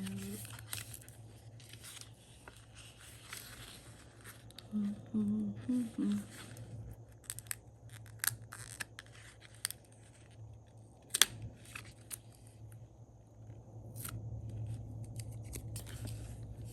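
Paper and sticker sheets being handled at a desk: scattered rustles and light clicks, with one sharper click about eleven seconds in, over a low steady hum.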